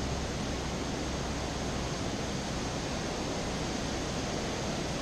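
Steady, even hiss of outdoor background noise with a low rumble underneath and no distinct events.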